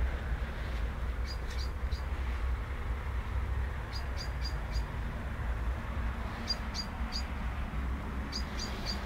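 A bird chirping: four groups of three or four short, high chirps, a group every two seconds or so, over a steady low rumble.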